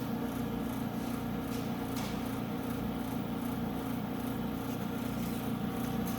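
Alcatel ASM 180TD helium leak detector running with a steady mechanical hum from its vacuum pumps, a few faint ticks over it.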